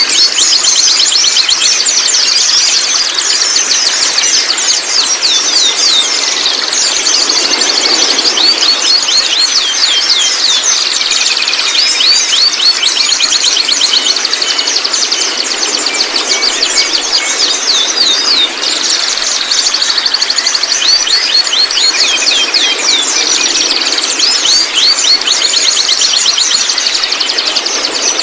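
Juvenile white-rumped shamas calling in a rapid, unbroken stream of short, high chirps and twittering notes, over a steady high whine.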